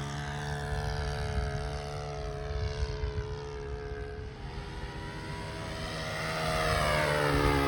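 Radio-controlled Seagull Models Corsair in flight, its engine and propeller drone sinking in pitch and fading as it draws away, then rising and growing louder as it comes back, passing again near the end.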